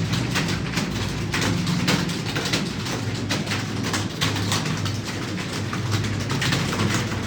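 Many computer keyboards being typed on at once: a dense, irregular clatter of key clicks. A steady low hum runs underneath.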